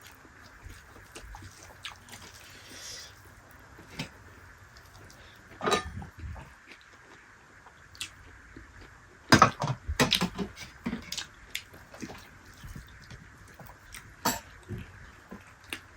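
Close-miked eating sounds of a dal bhat and dried yak meat meal: chewing and wet smacking with scattered clicks. A louder cluster comes about six seconds in and again around ten seconds in.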